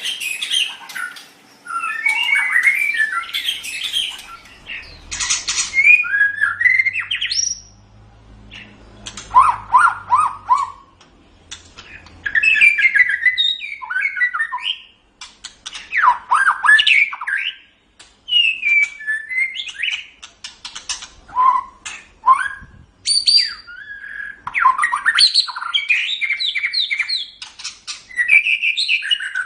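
White-rumped shama singing: a run of varied phrases of clear whistles, quick rising and falling slurs and harsher rasping notes, broken by short pauses of a second or so.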